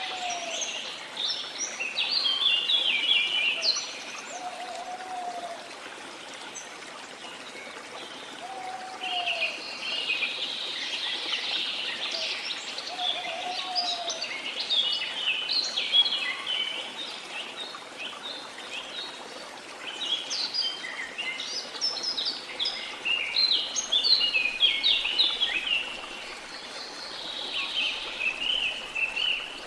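Jungle birds singing and chirping in repeated high bursts, with a short, low, down-slurred whistled call a few times in the first half, over the steady rush of a waterfall.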